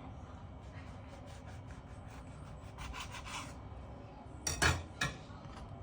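Rubbing and rustling handling noises, with a short scratchy stretch about three seconds in and two sharp knocks near the end, the first of them the loudest.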